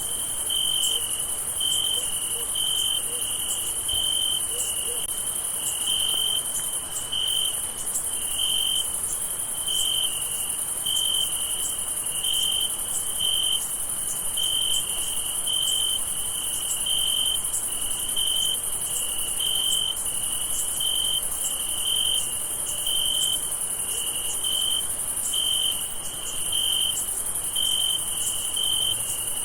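Crickets chirping: a regular chirp a little more than once a second, over a continuous high-pitched trill.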